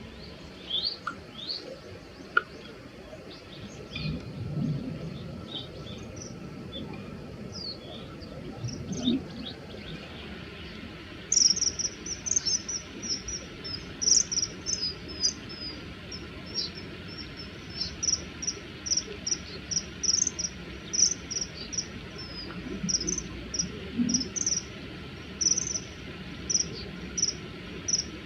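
Common kingfisher giving short, shrill, high-pitched call notes: scattered at first, then from about ten seconds in a steady run of sharp notes, roughly two a second.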